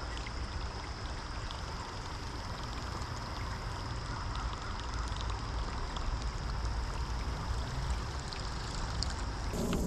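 Creek water running steadily, an even rushing sound with a low rumble beneath it.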